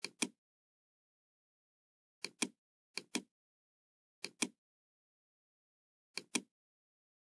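Computer mouse clicking: five quick pairs of sharp clicks, a second or two apart, with silence between.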